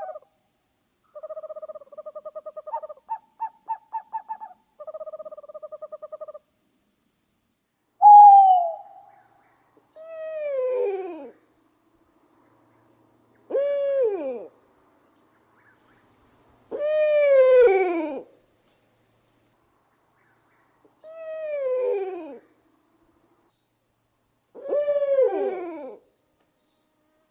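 Eurasian eagle-owl calling. First come a few short, rapidly pulsing trills, then six drawn-out calls spaced about three to four seconds apart, each sliding down in pitch. A faint, steady high whine runs under the later calls.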